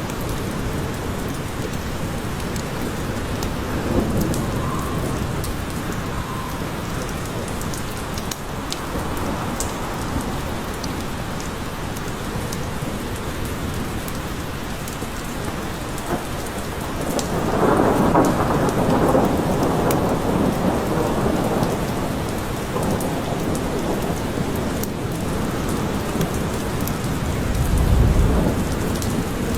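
Steady rain falling in a forest, with thunder rumbling: a longer roll a little past the middle and a deep low rumble near the end.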